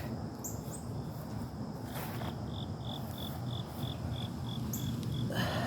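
A cricket chirping in short, even pulses at one high pitch, about three a second, starting about two seconds in. A brief scuffling noise near the end.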